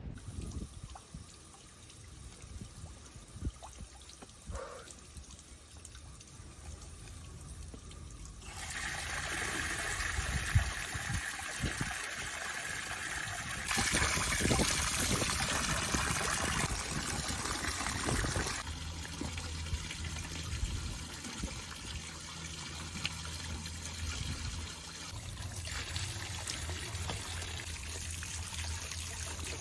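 Water running and splashing. It comes in about eight seconds in, is loudest for a few seconds in the middle, and then runs on more softly.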